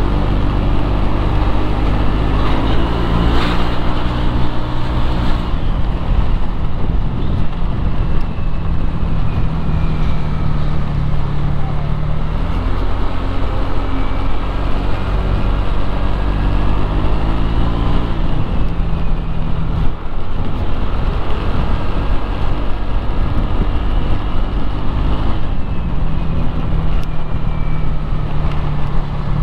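Road traffic heard from a moving motorcycle: a steady engine hum over a loud low rumble, with the engine pitch climbing for several seconds about halfway through before falling back.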